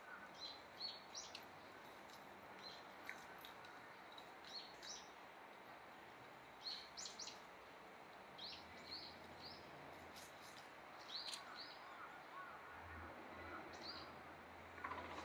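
Faint outdoor ambience with small birds chirping now and then: short, high chirps at irregular intervals over a steady low hiss.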